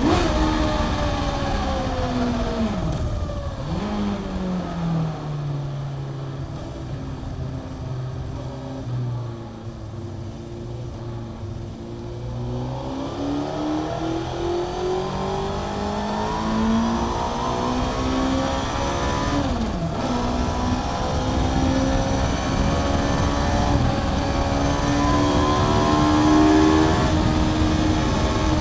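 Honda CBR600F inline-four sport bike engine through a Mivv aftermarket exhaust, heard from on board while riding on track. The revs fall and stay low for several seconds as the bike slows, then climb steadily under acceleration, dip briefly at a gear change about two-thirds through, and hold high near the end.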